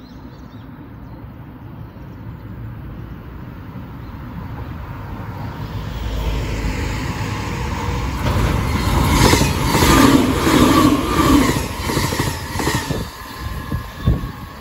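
Anpanman-liveried Shiokaze limited express electric train passing at speed. Its rumble builds as it approaches, then its wheels clack over the rail joints in a quick series as it goes by, and the sound fades as it draws away.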